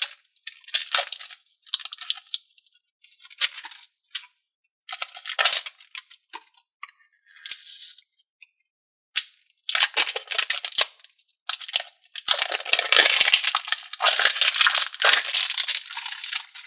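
Glittery jelly slime being squeezed and worked by hand, giving sticky crackling and squelching noises in irregular bursts with brief pauses, the longest stretch near the end.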